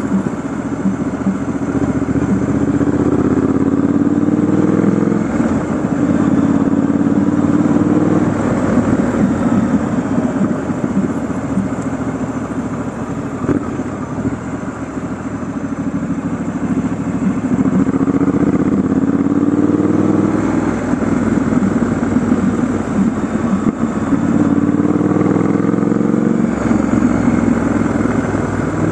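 Triumph Scrambler 1200 XE's 1200 cc parallel-twin engine running on the move, its revs rising and dropping back several times.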